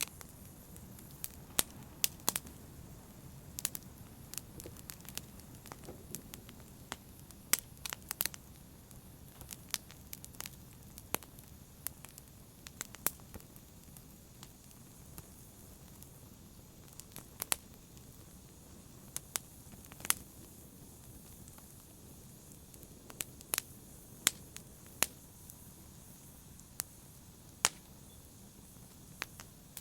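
Wood fire in a fireplace crackling: irregular sharp snaps and pops, sometimes a couple in quick succession, over a soft steady hiss of the burning.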